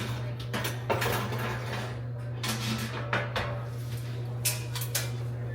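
Kitchen handling sounds as a package of cookie dough is taken out and handled: a series of sharp clicks and knocks with some rustling, over a steady low hum.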